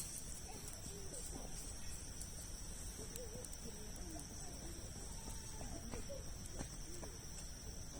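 Wood campfire of large logs burning, with scattered sharp crackles and pops. A steady high-pitched tone and faint distant voices run underneath.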